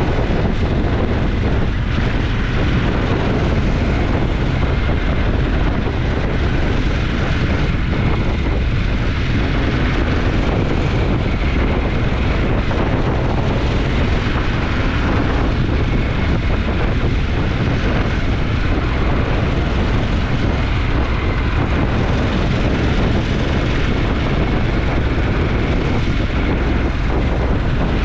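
Twin-cylinder motorcycle engine running at a steady cruise, mixed with heavy wind rush on the camera microphone.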